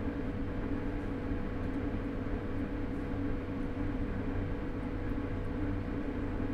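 Interior of a London Underground 2009 Stock train: a steady hum and rumble with a constant high tone over it. The pitch and loudness stay even, with no motor whine rising or falling.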